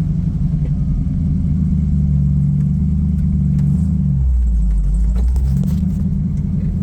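1978 Chevy truck's 350 small-block V8 running steadily under load; about four seconds in the engine note drops lower for a second or so, then picks back up.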